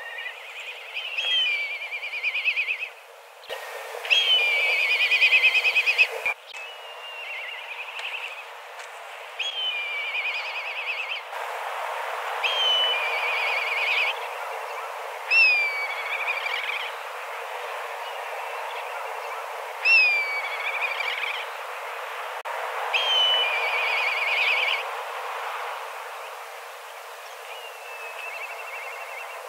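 Black kites giving their whistled 'pii-hyororo' calls, each a high sliding whistle that runs into a quavering trill. The calls come every two to three seconds, several birds overlapping, over a steady background hiss.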